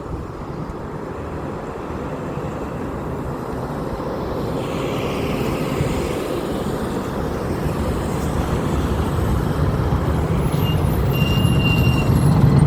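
Boeing C-17 Globemaster III's four turbofan engines on takeoff: a steady, rough jet noise that grows steadily louder as the aircraft comes closer.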